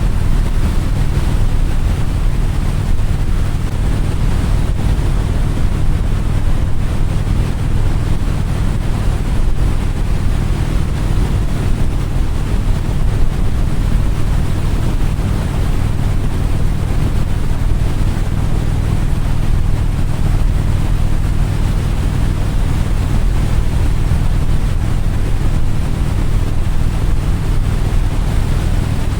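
Steady wind rushing over the microphone on top of a low, even engine drone.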